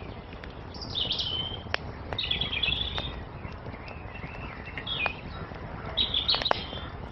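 Small songbirds chirping in short, quick phrases four times over a wood fire that crackles with scattered sharp pops and a steady low hiss.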